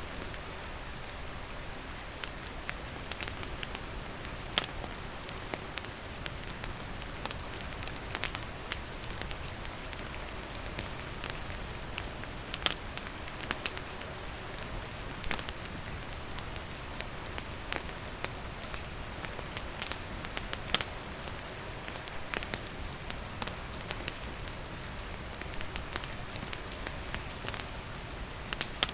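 Steady rain falling, with a wood campfire crackling through it in frequent sharp pops and snaps.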